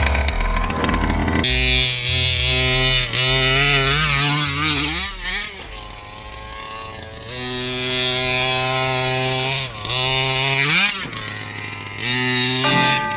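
Small two-stroke gas engine of an RC truck (DDM CY29RC) running through a side exhaust, its speed wavering, rising and falling, and easing off twice. Background music plays underneath and takes over near the end.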